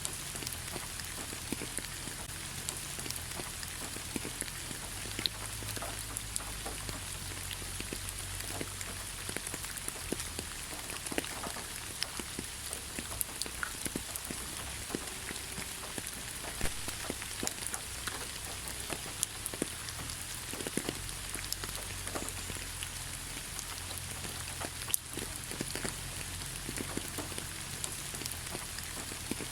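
Rain falling in a pine forest: a steady hiss with many separate drops ticking close by, scattered unevenly throughout.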